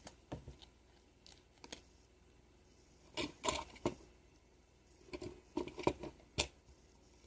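Stickers being peeled from a sticker sheet and pressed onto a small plastic toy: scattered paper rustles and crinkles with a few light clicks, in two clusters partway through.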